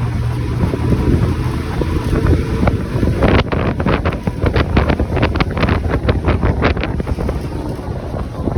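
Wind buffeting the microphone over a steady low vehicle rumble, with a run of rapid clicks and rattles starting about three seconds in.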